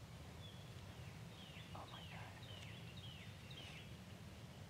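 Faint bird calls in woodland: a series of short, falling whistled notes about half a second apart, over a steady low rumble of wind on the microphone.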